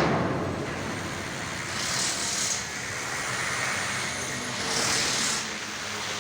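A heavy vehicle's engine running steadily, with two short hisses of air about two and five seconds in.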